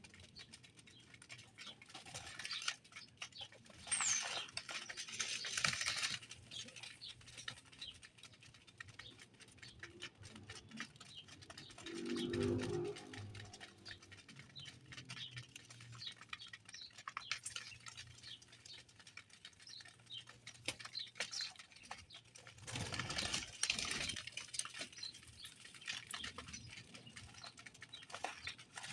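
Birds feeding and pecking: many quick light clicks and taps throughout, with two louder bursts of fluttering, one a few seconds in and one about three quarters through, and a short low sound near the middle.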